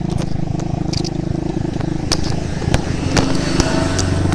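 Motorbike engine running while riding over a rough road, its exhaust damaged with the end piece missing, with several sharp knocks through it. The engine note changes about three seconds in.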